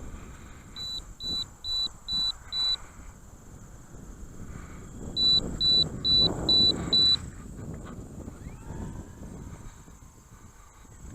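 Electronic beeper sounding two runs of five short, high beeps, about two a second, the second run louder, over a steady high whine and low wind rumble.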